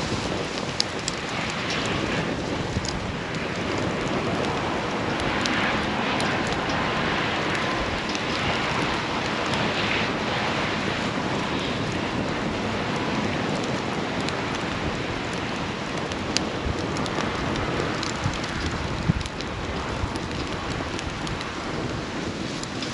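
Wood campfire burning, with a steady hiss and constant crackling, and a few louder pops in the second half.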